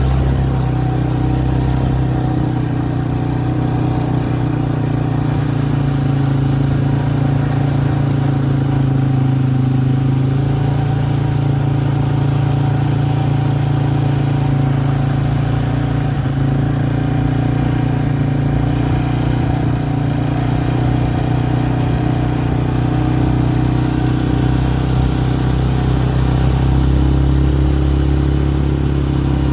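A motor vehicle's engine running steadily, a constant low drone with little change in speed.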